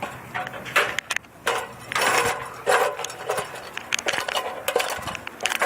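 Irregular clicks, clinks and brief rustles of hands handling tools and small metal parts, the sounds of working on an air-conditioner condenser during a run-capacitor swap.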